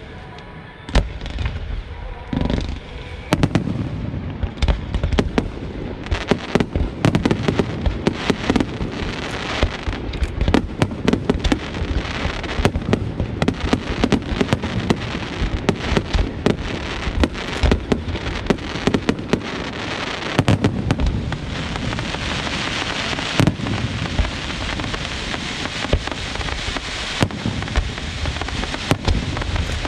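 Aerial fireworks bursting in a dense barrage of bangs, a few at first and then many in quick succession. About two-thirds of the way through, a steady high hiss joins the bangs and runs on under them.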